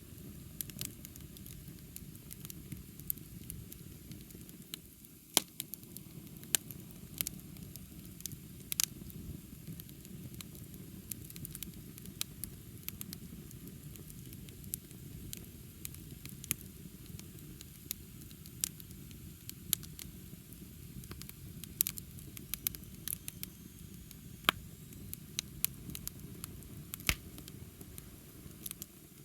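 Wood bonfire burning: a steady low rush of flame under irregular sharp crackles and pops from the burning wood, with a few louder snaps.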